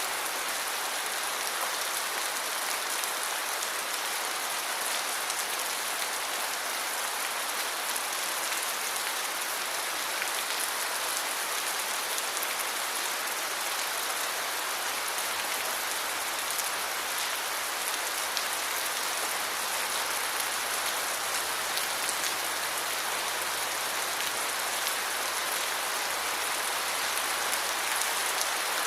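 Steady heavy rain falling and pattering on surfaces, a dense even hiss with fine individual drop ticks.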